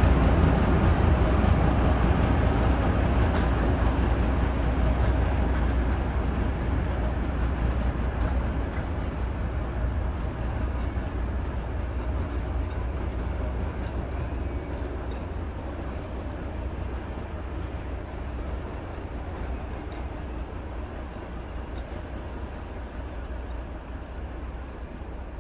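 Steady rumble of a moving vehicle, with no distinct tones or knocks, fading gradually throughout.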